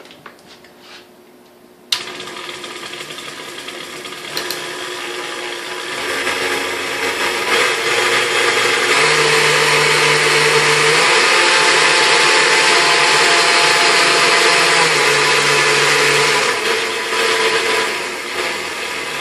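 KitchenAid 3C stand mixer switched on with a click about two seconds in, its motor and gearbox running steadily, louder as the speed is raised and dropping back near the end. It now runs smoothly, with a new field coil and armature in place of the burnt-out ones.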